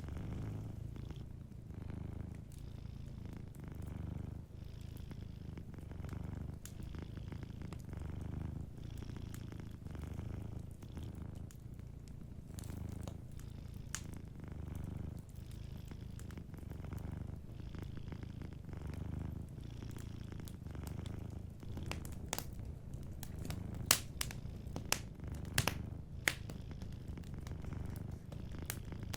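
Domestic cat purring steadily, its low rumble swelling and easing about every two seconds with its breathing, over the crackle of a wood fire. The fire's sharp pops grow more frequent and louder about three-quarters of the way through.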